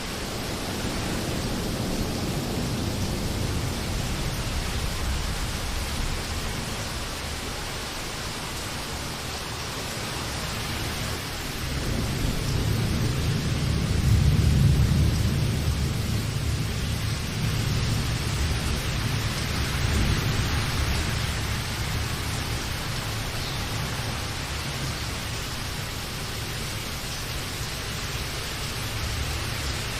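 Steady rain hiss, with a long low rumble of thunder that swells about twelve seconds in, is loudest a few seconds later and slowly fades away; a weaker low rumble sits under the rain at the start.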